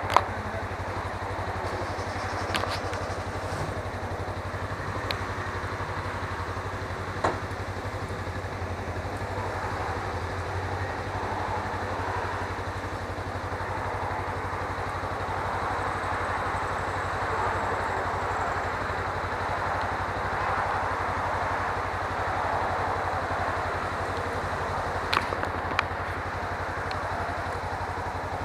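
Suzuki V-Strom 250 motorcycle's parallel-twin engine running steadily under an even haze of wind and road noise, with a few sharp clicks, two of them close together near the end.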